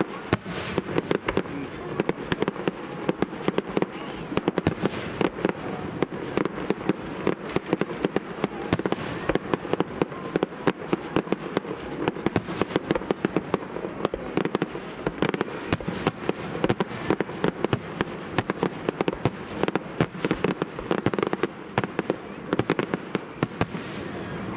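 Aerial fireworks bursting in a dense, continuous barrage: many sharp bangs and crackles every second, irregular and overlapping.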